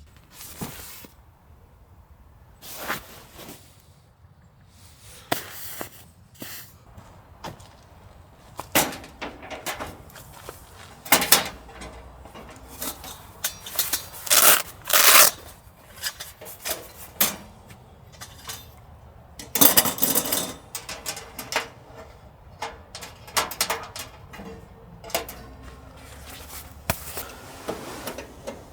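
Objects being handled and set down: irregular knocks, clicks and light clatters, with a busier stretch in the middle.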